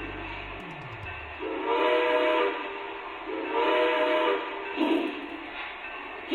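A train horn sounding in blasts of about a second each, about two seconds apart, then shorter toots, over a steady train running noise.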